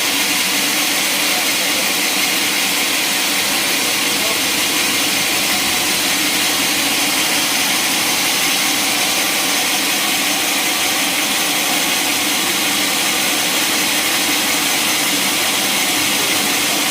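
Sawmill machinery running with a loud, steady, even noise that does not change.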